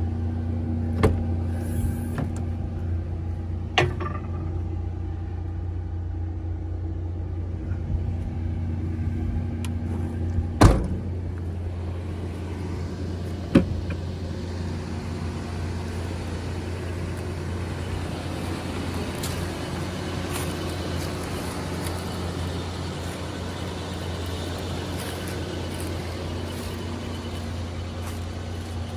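1994 Toyota Land Cruiser 80 series engine idling, a steady low hum, with a few sharp clicks and knocks, the loudest about ten seconds in.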